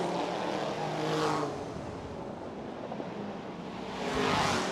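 Race car engines running, swelling louder about a second in and again near the end.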